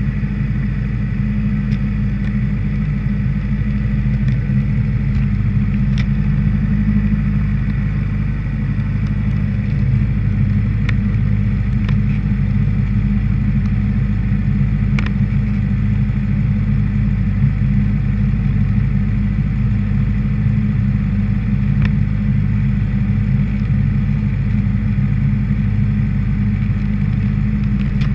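Honda CBR600RR's inline-four engine idling steadily, with a few light ticks now and then.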